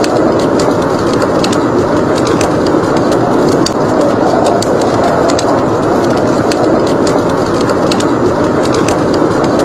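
Steady roar of blizzard wind, with a log fire crackling over it in small, irregular sharp pops.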